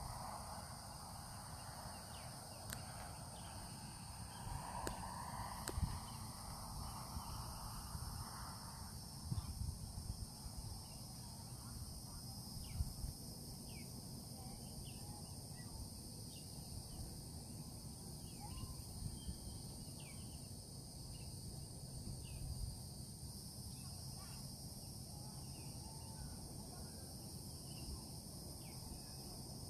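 Outdoor ambience of a steady high insect chorus, with many short, falling bird chirps from about halfway on and a low wind rumble on the microphone; a broad hiss in the middle range fades out after about nine seconds.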